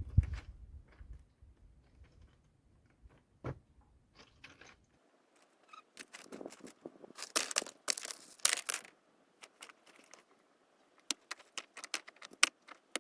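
Irregular crunching and crackling handling noise with scattered sharp clicks, from hands working natural building materials; denser bursts of crackling come a little past the middle and again near the end.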